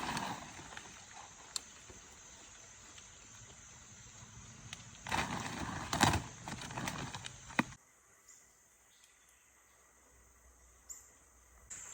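Faint outdoor background noise with a click. About five seconds in, a louder noisy stretch of handling sounds with a couple of sharp knocks, which cuts off abruptly into near silence.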